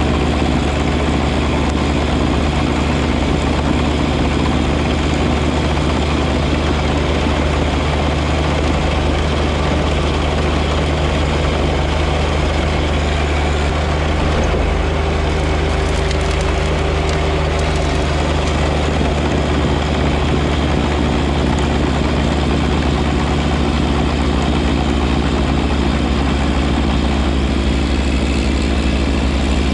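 John Deere 1025R compact tractor's three-cylinder diesel running steadily while driving its 54-inch front-mounted snow blower, a low engine hum under an even rush of the blower.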